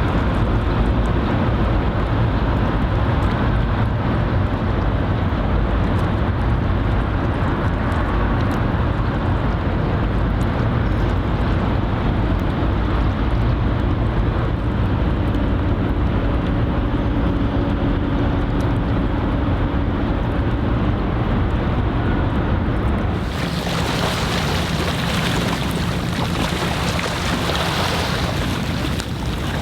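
Harbour waterfront ambience: wind rumbling on the microphone over lapping water, with a steady low drone from a passing vessel's engine. About 23 s in it cuts abruptly to a brighter hiss of wind and water.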